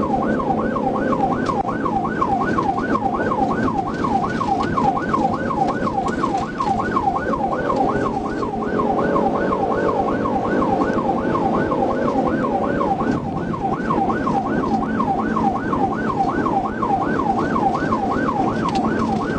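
Police cruiser siren on yelp, a fast rising-and-falling wail repeating about two and a half times a second, over the engine and road noise of a high-speed pursuit. A steadier lower tone joins it for a few seconds in the middle.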